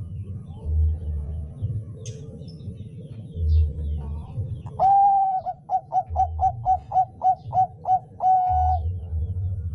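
Zebra dove (perkutut, Thai 'bangkok' line) singing once about halfway in: a long opening note, a quick run of about nine short notes, then a drawn-out final note. Low rumbling pulses come and go underneath.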